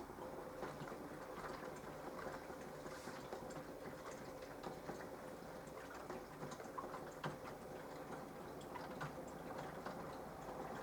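Water splashing and trickling inside a mini washing machine's drum during a wash cycle, with many small ticks and drips over a faint steady hum that starts just after the beginning.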